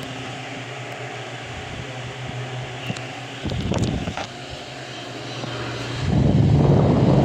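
Electric fan running with a steady motor hum. Its airflow buffets the microphone in gusts, briefly a few seconds in and most strongly near the end.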